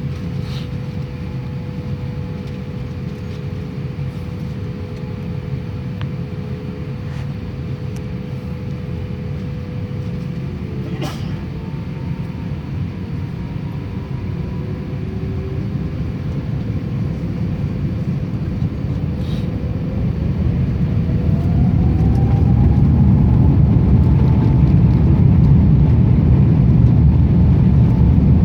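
Airbus A350 jet engines (Rolls-Royce Trent XWB) spooling up to takeoff power: a steady low rumble that grows louder over the second half, with a whine rising in pitch about twenty seconds in.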